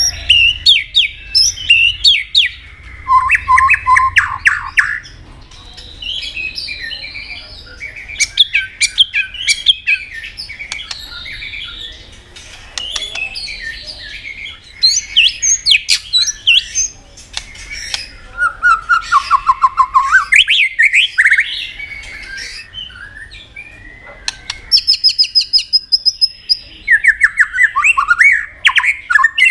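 White-rumped shama singing a varied song: fast runs of repeated downslurred notes, sharp clicking calls, and a high trill about 25 seconds in.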